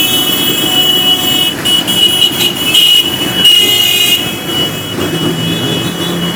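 A large group of motorcycles riding past, engines running together. A steady high-pitched tone sounds on and off over them.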